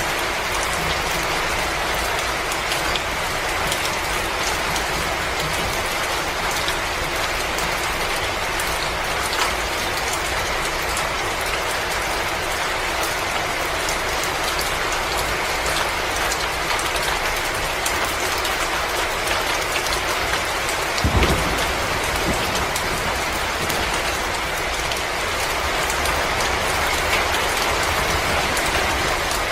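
Wood fire crackling in a fireplace: a steady hiss with scattered sharp pops and clicks, and one short low thump about two-thirds of the way through.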